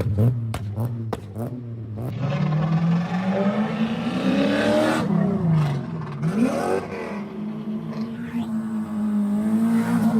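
Car engine revving and accelerating as a car pulls away. There is a quick run of sharp pops in the first second or so, then the engine pitch climbs, drops and climbs again before settling to a steady note near the end.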